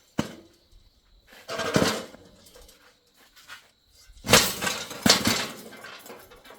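A sharp click, then two bouts of clattering and scraping of hard objects, one about a second and a half in and a longer one about four seconds in.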